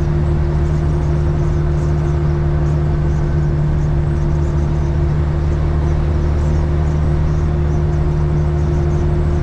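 Cat 3406E inline-six diesel in a Freightliner FLD120 semi truck running steadily at highway cruise, heard inside the cab as an even drone with road noise.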